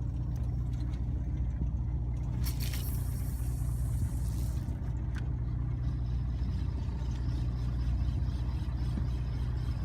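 Fishing boat's engine running steadily, a low drone, with a brief hiss lasting about two seconds a few seconds in.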